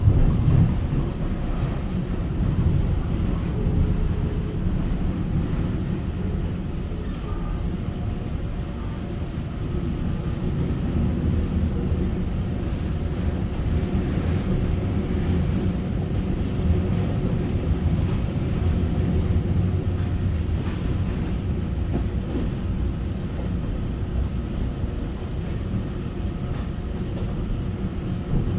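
Steady running noise inside a Taiwan Railway EMU900 electric multiple unit: a continuous low rumble of the wheels on the rails and the car body as the train travels.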